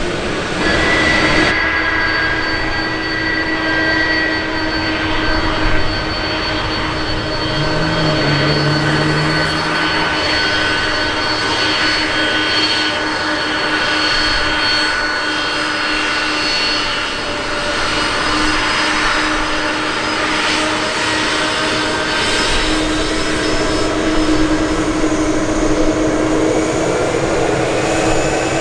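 Jet airliner engines running, a steady whine of several held tones over a dense rush of noise.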